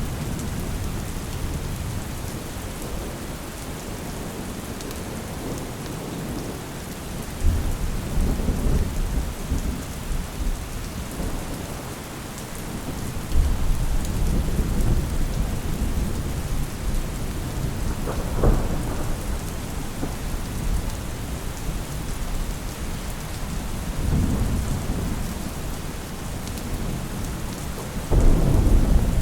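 Steady rain falling, with rolls of thunder. The low rumbles swell up abruptly about a quarter of the way in, near the middle and again near the end.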